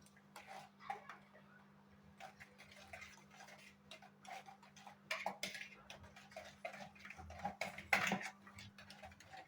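A spoon stirring curd and powdered sugar in a bowl, with irregular light clicks and taps of the spoon against the bowl that grow busier about halfway through.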